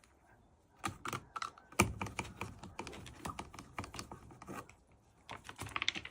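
Rapid, irregular clicking and tapping of small hard objects, like a bird's beak pecking and knocking at the pieces of a puzzle, starting about a second in and growing quicker near the end.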